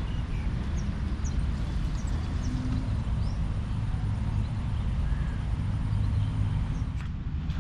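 Small birds chirping in short high calls over a steady low rumble, with a few sharp clicks about seven seconds in.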